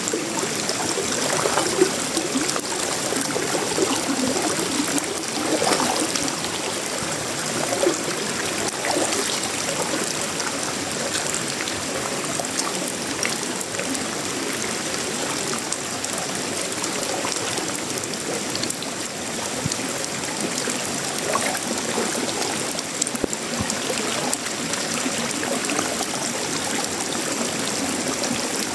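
Tropical rain falling steadily on sheet metal, wood and leaves: a dense, even hiss with scattered sharper drop hits and irregular heavier splashes.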